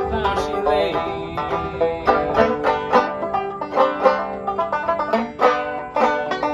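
A 1913 Fairbanks/Vega Tubaphone banjo playing an instrumental break of an old-time tune, a steady run of quickly picked notes.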